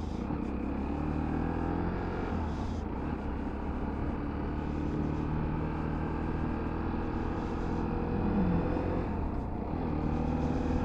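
Small motorbike engine running under way, its note steady, then dropping about eight seconds in and rising again as it picks up speed.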